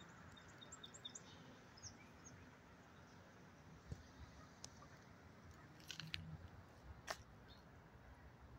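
Near silence: faint background hiss with a few faint, short, high bird chirps in the first two seconds, and a few light clicks later on.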